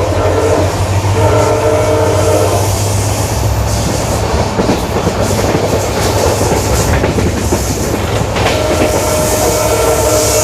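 Passenger train running at speed behind a WDP4D locomotive, its EMD diesel engine humming steadily under the clatter of wheels on rail joints. A held multi-note tone sounds briefly near the start and again near the end.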